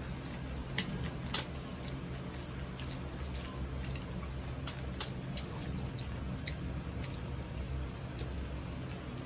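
Close-up mukbang eating of crispy fried pork knuckle: wet, squishy chewing with scattered sharp clicks and crackles, over a steady low hum.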